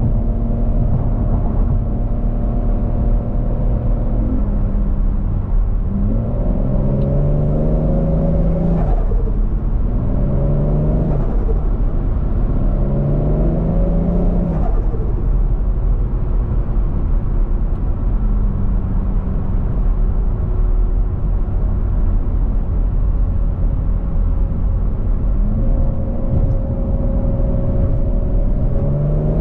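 Turbocharged 1JZ-GTE VVTi straight-six in a Scion FR-S, driven at steady speed and then accelerating through the gears. It rises in pitch three times in quick succession, dropping back at each shift, cruises steadily, and starts another pull near the end.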